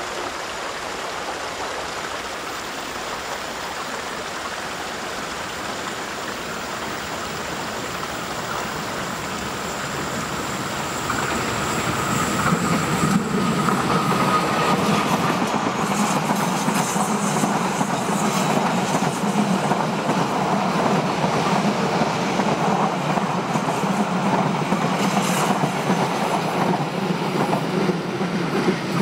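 Passenger train approaching and passing close on a curving track. A low rushing grows louder about eleven seconds in, then the carriages run by with a steady low rumble and repeated wheel clatter over the rail joints.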